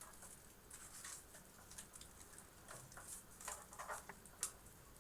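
Faint, irregular rustles and light clicks of power cables and connectors being handled and bundled inside a computer case.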